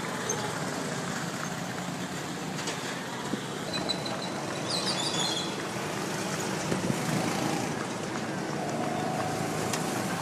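A motor vehicle's engine running steadily, with a few short high chirps about four to five seconds in.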